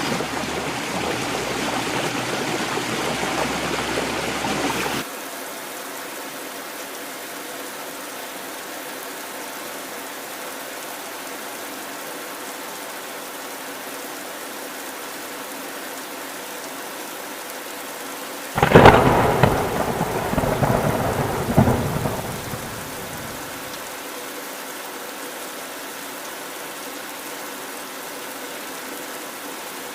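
Heavy rain falling steadily, louder at first and then dropping suddenly to a quieter, even downpour about five seconds in. A sharp crack of thunder breaks in about two-thirds of the way through and rumbles on for about four seconds before the rain alone returns.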